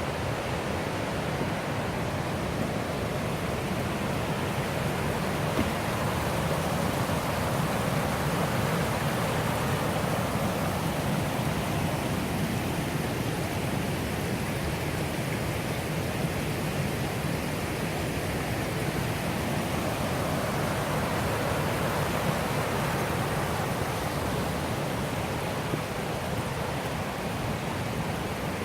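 Millstone River water rushing, a steady even roar with no breaks.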